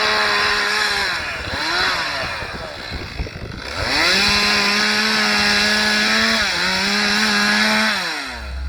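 Two-stroke chainsaw limbing a spruce log: the saw is revved to full throttle, eases off, gives a short blip and then runs flat out again. Its pitch dips briefly about two thirds of the way in, then it winds down to idle near the end.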